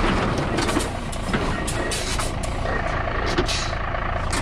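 Car engine running as one car tugs another on a tow rope, with scattered short clicks and scrapes.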